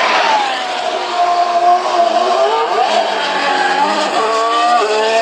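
Several 2019 Formula 1 cars' turbocharged V6 hybrid engines running as they head out onto the circuit, their pitches rising and falling with throttle and gear changes, one sharp upshift near the end.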